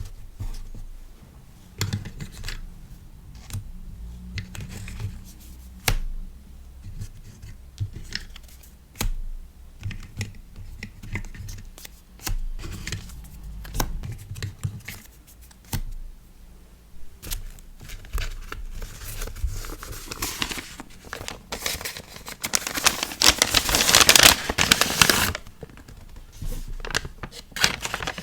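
Hand-packing of a sticker order: scattered light taps and clicks as items are handled and set down. About twenty seconds in, several seconds of loud crinkling and tearing of packaging.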